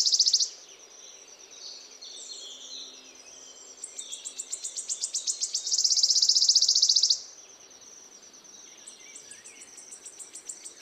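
Small songbird singing loud, high, rapid trills: a string of clicking notes speeds up into a dense buzzing trill. One trill ends about half a second in, a second runs from about four to seven seconds, and a third begins near the end. A thin steady high tone carries on between the trills.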